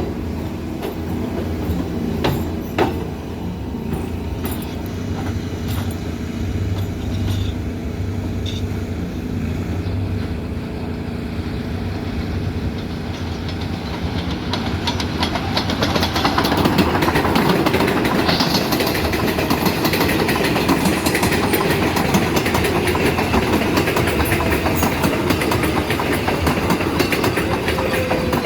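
R188 subway train on the IRT Flushing Line: wheels rumbling and clacking over the rail joints with scattered clicks, growing louder and denser about halfway through as a train comes past.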